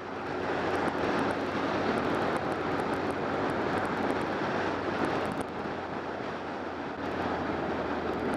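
Steady wind rush over a BMW K1200R motorcycle riding at road speed, with the low, even drone of its inline-four engine underneath.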